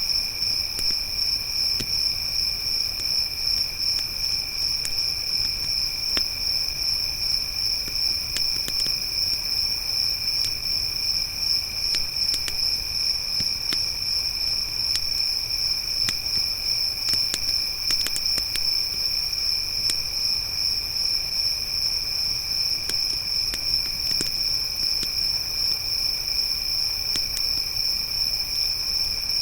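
Crickets trilling steadily in a high, continuous, finely pulsed chorus, with a campfire crackling underneath in scattered sharp pops.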